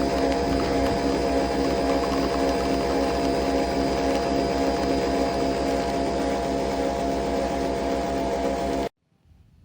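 Nespresso Vertuo Next coffee machine running while it brews: a steady mechanical hum with a fast, even low pulsing. It cuts off abruptly near the end.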